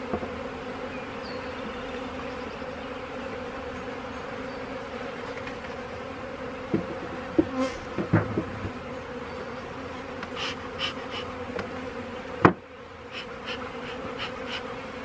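Honey bees buzzing in a steady hum that holds one low pitch, a colony just shaken out of its nuc box and milling at the hive entrance. A few short knocks and clicks come in the second half, the sharpest about twelve and a half seconds in.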